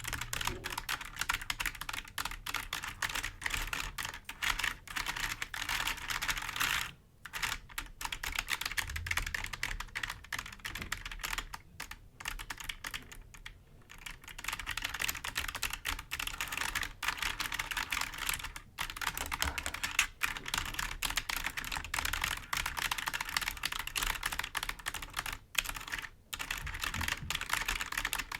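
Fingers tapping and scratching quickly on the keys of a clicky computer keyboard, a dense run of small clicks broken by a few brief pauses.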